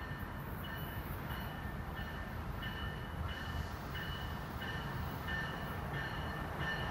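A train approaching: a steady low rumble, with rail hiss building from about halfway through. A short ringing ding repeats about every 0.6 s.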